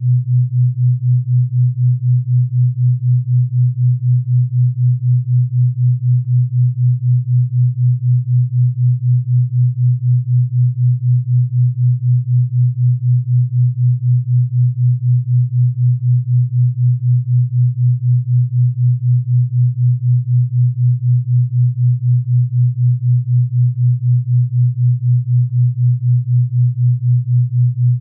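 Low steady electronic tone pulsing evenly about three times a second: a brainwave-entrainment tone meant to bring on sleep.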